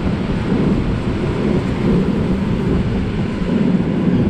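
Regional passenger train running along the line: a steady rumble of wheels on the rails and running gear, heaviest in the low range, with no sudden knocks.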